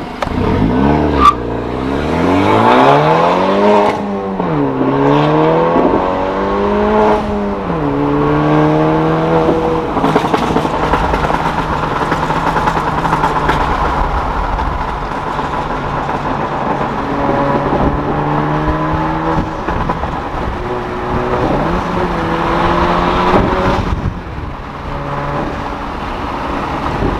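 Turbocharged 1.5-litre four-cylinder of a 2017 Honda Civic Si, tuned and fitted with a catless downpipe, heard loud from inside the cabin as it launches from about 2000 rpm with a sharp crack about a second in. It revs up hard through two gears, the pitch climbing and dropping at each upshift, then holds a steady pitch before two shorter climbs and drops near the end.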